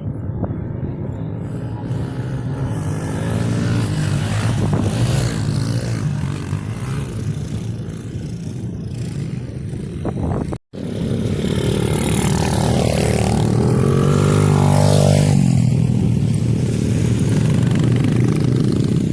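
Small pit bike engines revving hard under racing throttle, the pitch climbing and dropping with throttle and gear changes. The sound cuts out for an instant about ten seconds in.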